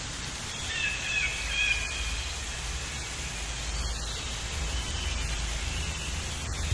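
Steady outdoor background noise with short bird chirps, a cluster about a second in and a few fainter ones around five to six seconds in.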